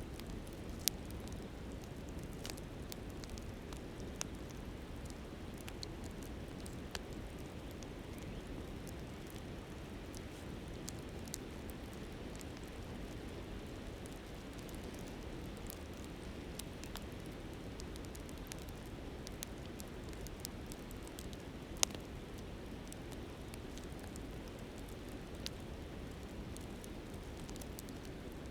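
Campfire crackling with scattered sharp pops, the clearest about a second in and about 22 seconds in, over the steady low rush of a flowing river.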